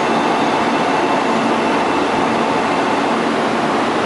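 E2 series Shinkansen standing at the platform, its onboard equipment and air conditioning giving a steady hum and hiss.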